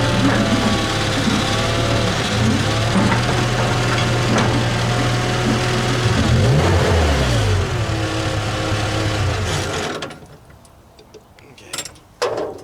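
Skid steer engine running steadily, with a whine that bends up and down in pitch about halfway through. The engine is shut off about ten seconds in, followed by a few clicks and knocks.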